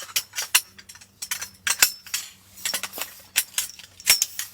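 Irregular light clinks and taps of metal cookware and utensils being handled, a dozen or more sharp strikes with short gaps between them.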